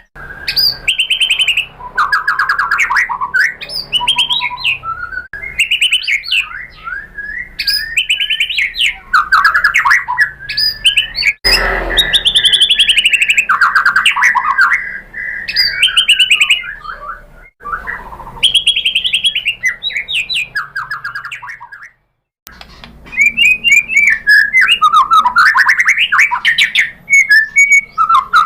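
White-rumped shama (murai batu) singing a long, loud, varied song of whistles, rapid trills and chattering phrases separated by short pauses. The song cuts out briefly about two-thirds of the way through, then resumes.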